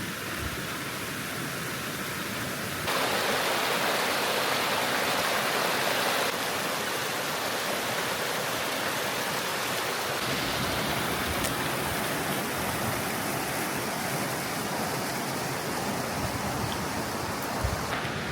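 Waterfall's falling water rushing steadily. The rush jumps in loudness and tone abruptly at about three seconds in, then drops at about six and again at about ten.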